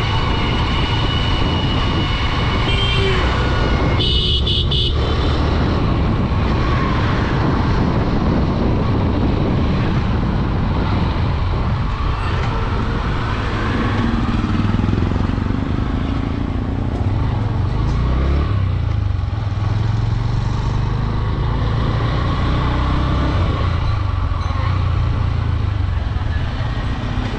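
Honda Dream 110's single-cylinder four-stroke engine running steadily at road speed under low wind rumble and road noise, with other traffic around; a horn sounds briefly about four seconds in.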